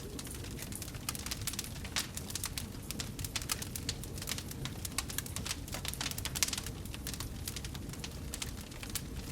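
Wood fire burning in a fireplace, crackling and popping with many irregular small snaps over a low steady rumble of the flames.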